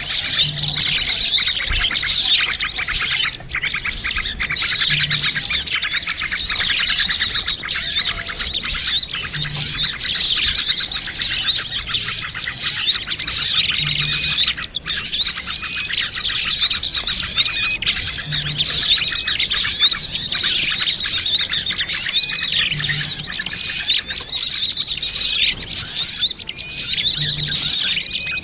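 Bird-lure recording of many small birds chirping and twittering at once: a dense, unbroken chatter of short high calls and trills, a mix made to draw small birds in.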